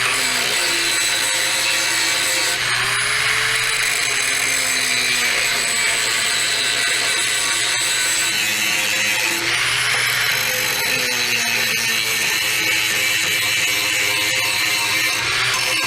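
Angle grinder grinding paint and rust off a steel plow moldboard to clean it for welding. It runs steadily, its whine sagging and recovering in pitch a couple of times as the disc bites in, over a steady low hum.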